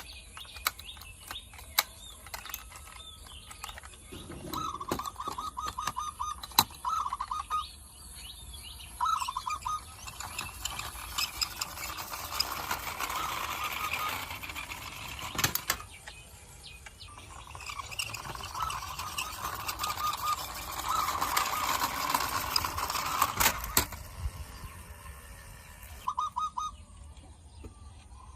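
Small toy trucks being handled: scattered sharp plastic and metal clicks, with several stretches of a rapid buzzing rattle.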